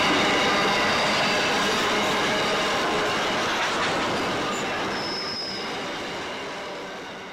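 Grain hopper wagons of a freight train rolling past, with the rumble of wheels on rail and several steady squealing tones from the wheels. The sound gradually fades away towards the end.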